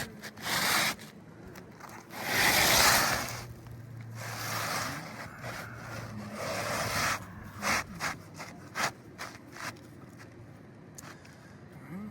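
A tool scraping and rubbing against asphalt roof shingles while nails are worked out. There are several long scraping strokes, the loudest about two seconds in, then a run of short, sharp scrapes near the end.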